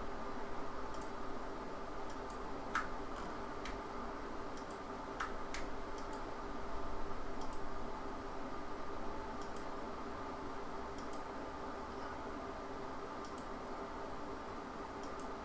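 Computer mouse clicking, short clicks often in quick pairs about every second or so, over a steady hum.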